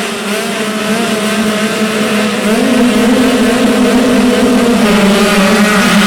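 Dirt bike engines running and revving on a motocross track, growing louder about two and a half seconds in.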